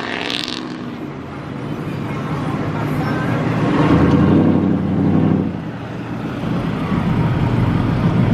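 Pickup truck engine pulling away, building to its loudest about four to five seconds in, dropping off briefly, then running on with other traffic.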